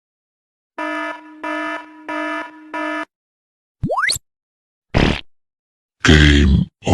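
A run of stock sound effects. An alarm buzzer sounds four evenly spaced beeps, a quick rising filter sweep follows, then two short, noisy blasts, the second the loudest.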